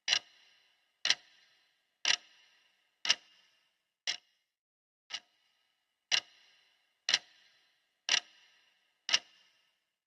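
Clock-style ticking of a countdown timer: one sharp tick each second. Most ticks are louder with a brief ringing tail, and a couple are softer and shorter.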